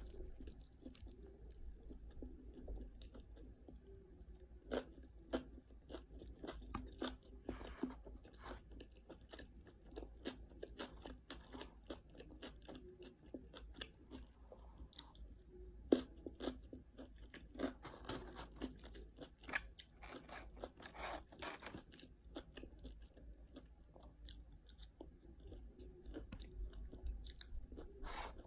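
A person chewing and biting crunchy food close to the microphone, with many short crisp crunches throughout and busier stretches of crunching near the middle and near the end.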